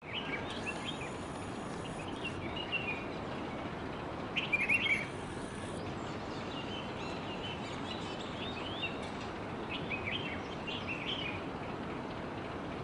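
Small birds chirping: short high calls in scattered clusters, the loudest cluster about four and a half seconds in, over a steady background hiss.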